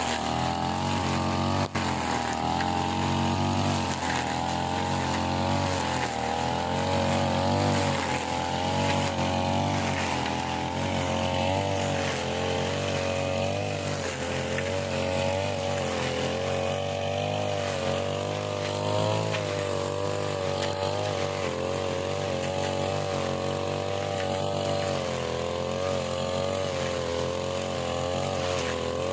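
Small petrol engine of a grass-cutting machine running steadily under load, its pitch wavering slightly up and down as it cuts.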